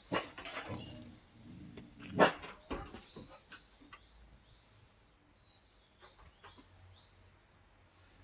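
Dogs making two loud sounds, one just after the start and a louder one about two seconds in, with a few softer ones after it. Behind them a bird repeats a short high chirp about three times a second.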